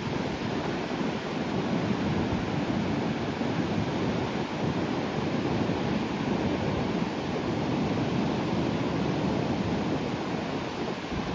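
Sea surf breaking on the shore: a steady, continuous rushing of waves without distinct single crashes.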